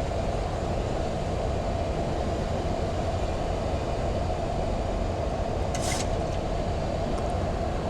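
Steady cockpit noise of a Boeing 737 MAX 8 on final approach with landing gear down: the even rush of airflow with engine hum beneath it. A brief short hiss about six seconds in.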